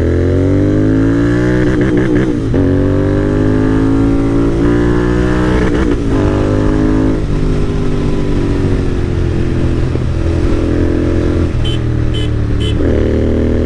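Royal Enfield GT650 parallel-twin engine through an AEW aftermarket exhaust under hard acceleration, the note climbing toward the red line and dropping at several upshifts.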